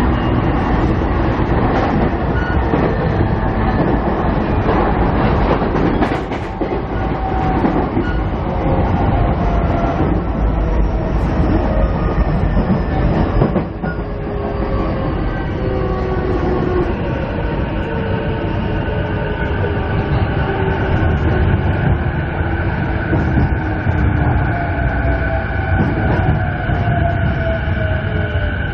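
Interior running noise of a 209-500 series electric train heard from inside a motor car: a steady rumble of wheels on rail with some clickety-clack. Over it the traction motors whine in several tones that fall slowly in pitch through the second half.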